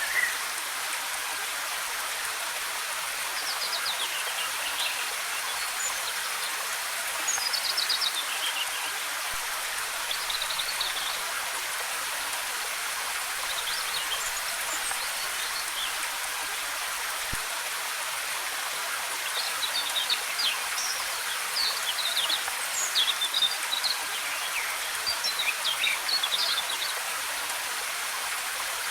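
Steady rush of a waterfall, with small birds chirping in short phrases now and then, busiest in the second half.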